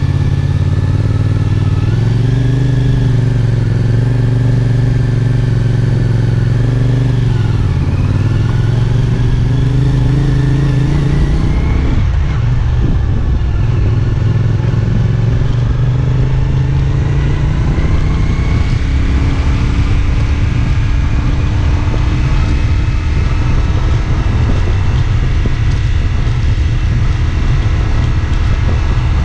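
CFMOTO 450SR S parallel-twin engine running under way, its revs holding, dipping and rising as the bike is ridden, with a sudden drop in revs about twelve seconds in.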